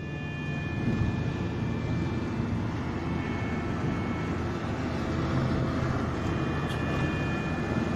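Steady rumble of a ship's engine and machinery, with faint steady whining tones above it.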